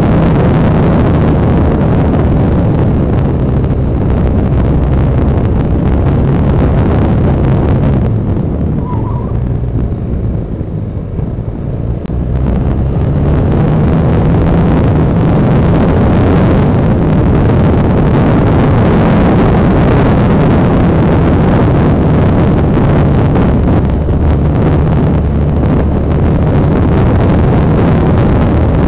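Honda NX650 Dominator's single-cylinder engine running steadily under way, with wind on the microphone. About eight seconds in the engine note drops and quietens for a few seconds, then picks up again.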